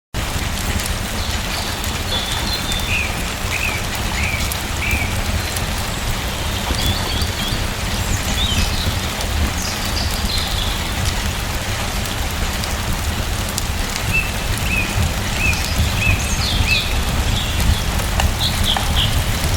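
Steady rain falling, with small birds chirping in short runs of high chirps over it.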